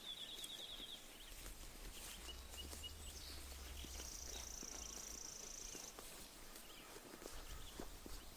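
Sheep grazing close by, with soft crunching and tearing of grass as they chew, over small birds chirping in the pasture. A rapid bird trill ends about a second in, and a high buzzing trill runs for about two seconds in the middle.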